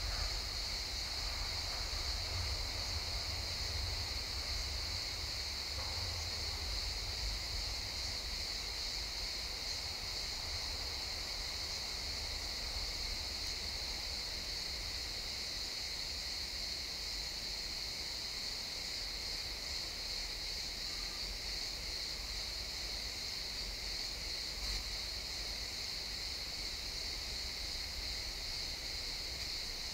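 Crickets chirping steadily in a chorus, a high continuous trill, over a low wind-like rumble that eases after the first several seconds.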